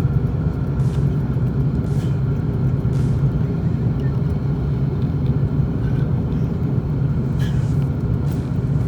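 Steady low rumble of a vehicle in motion, even in level throughout, with a faint steady whine above it and a few light clicks.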